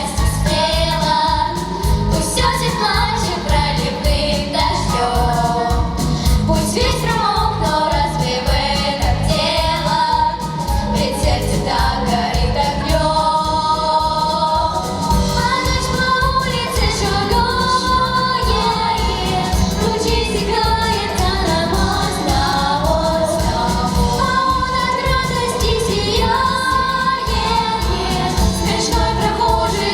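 A song sung by several voices together, over an accompaniment with a steady beat.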